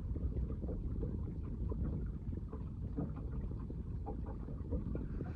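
Steady low rumble of a small fishing boat at sea: water against the hull and wind on the microphone, with scattered faint light knocks.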